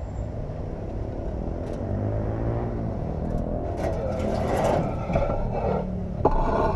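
Motorcycle engine running and accelerating, its pitch climbing through the revs, with a short rushing noise near the end.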